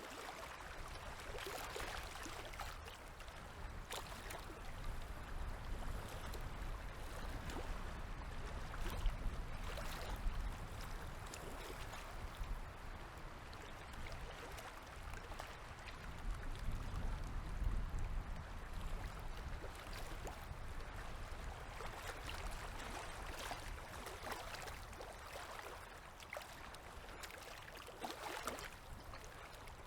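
Small river waves lapping and gurgling against the shore, a continuous wash of water with scattered small splashes and a low rumble underneath that swells a little at times.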